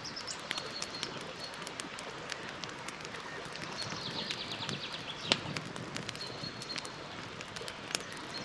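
Campfire crackling, with scattered sharp pops, the loudest about five seconds in. A small bird sings a quick high trill about four seconds in, with short high whistled notes before and after.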